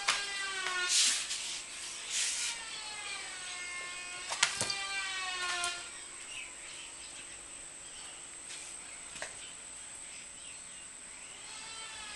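Puppy whining in long, high cries that rise and fall in pitch, with a few short snuffling or rustling bursts, for about the first six seconds. After that the whining stops and only a quieter background remains.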